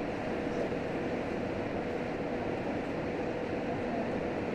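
Steady running noise inside a JR Hokkaido H100 diesel-electric railcar under way: a continuous rumble of wheels on track and drivetrain, with a faint steady hum.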